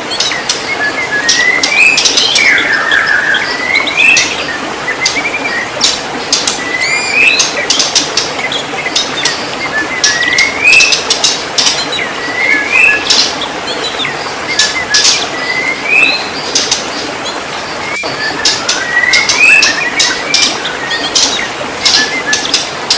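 White-rumped shama singing: short rising whistled phrases that repeat about every two seconds, mixed with sharp high-pitched notes, over a steady hiss.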